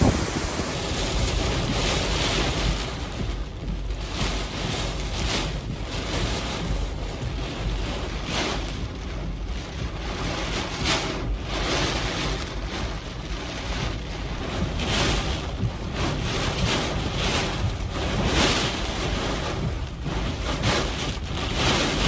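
Hurricane-force eyewall wind blowing hard and buffeting the microphone, a continuous rush with a low rumble that swells in gusts every second or two.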